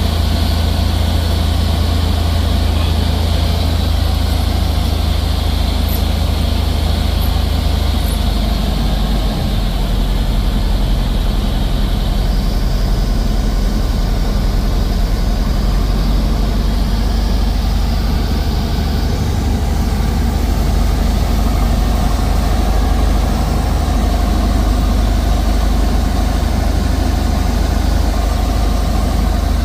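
Cessna 172's piston engine and propeller heard from inside the cockpit, a loud steady drone; its low note shifts down about eight to nine seconds in.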